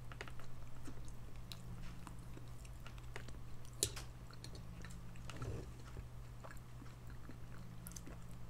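A person chewing a mouthful of canned sardines with sriracha, heard up close as many small wet mouth clicks, one sharper click about four seconds in. A steady low hum runs underneath.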